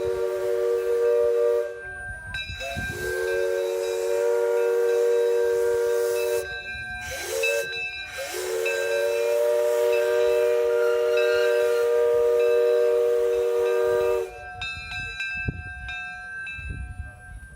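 Steam locomotive's chime whistle blowing a series of blasts, several notes sounding together over a hiss of steam. The sequence runs: the end of a long blast, a short toot, a long blast, two quick toots, then a final long blast that cuts off a few seconds before the end.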